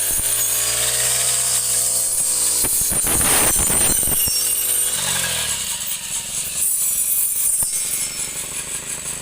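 Small engine-driven cutting tool running, its pitch dipping and rising with load and falling away about five seconds in, over rasping cutting noise.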